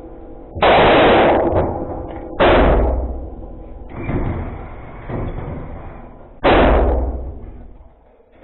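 Three 9mm pistol shots from a Glock 43X, fired singly with unhurried pauses, each ringing out in a long echo, with a couple of fainter bangs between the second and third.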